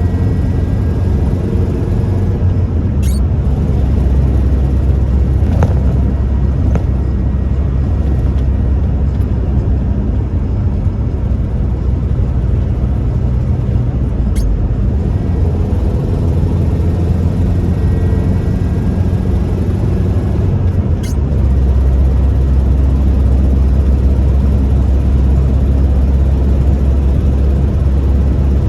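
1998 Toyota Tacoma 4WD pickup being driven: steady engine and road drone. The low engine note shifts a couple of times, and there are a few faint clicks.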